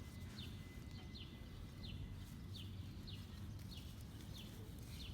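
A bird repeating a short, falling chirp about every three-quarters of a second, faint over a steady low background rumble.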